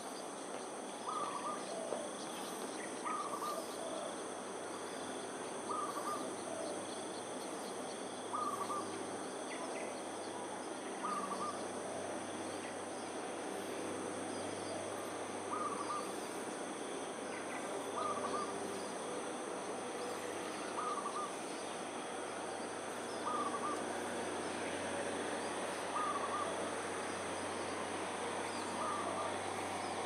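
A bird repeating one short call every two to three seconds, about a dozen times, over a steady high-pitched insect drone.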